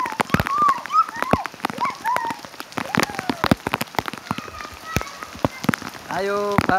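Rain falling, with heavy drops striking a surface as a dense, irregular patter of sharp taps over a light hiss.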